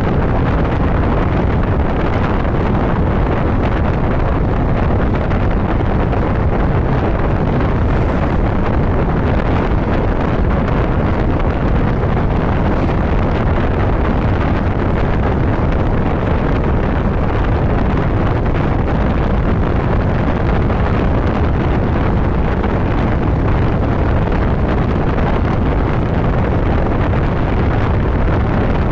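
Steady, loud wind rush buffeting the microphone on a motorcycle cruising at highway speed, with the bike's running noise buried underneath.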